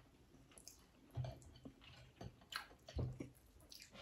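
Faint close-up chewing and lip smacking as food is eaten by hand, with scattered small clicks and two soft low thumps.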